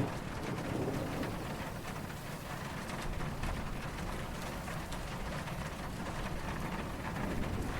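Steady rain falling, a dense patter of drops, with a low rumble of distant thunder underneath and no sharp cracks.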